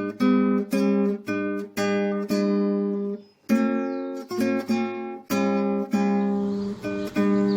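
Acoustic guitar music: chords strummed about twice a second, each ringing and dying away, with a short break about halfway through.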